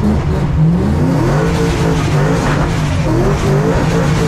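Supercharged Boss 302 V8 of a 900 bhp Ford Mustang RTR drift car revving hard under drift throttle. The engine note climbs about a second in, drops around two seconds, then climbs again and falls near the end.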